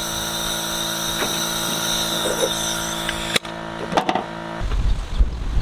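A steady machine hum with a high whine, broken by a sharp click about three and a half seconds in. About a second later, a low rumble of wind on the microphone takes over.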